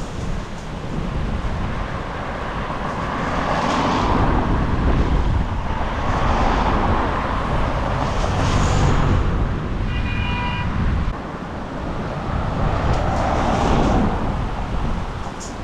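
Storm wind buffeting the microphone, with several vehicles swishing past on a wet road, their rushing tyre noise swelling and fading in turn. A short tone sounds briefly about ten seconds in.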